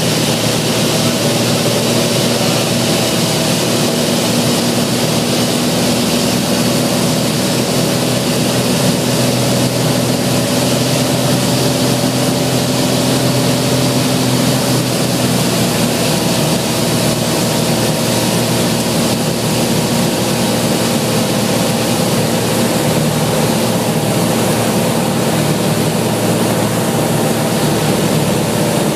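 A Cessna 182's single piston engine and propeller drone steadily, over a rush of wind noise.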